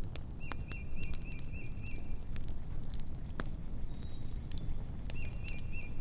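Outdoor ambience: a bird calling in a run of about six quick chirps, twice, with a few short high whistles, over scattered sharp crackles and a low steady rumble.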